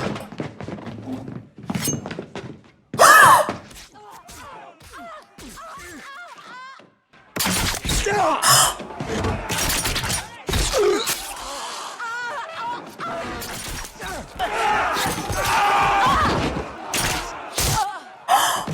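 Television drama soundtrack of a sudden violent attack in a hall: a single loud cry about three seconds in, then from about seven seconds a commotion of shouting voices with thuds and crashes of things breaking.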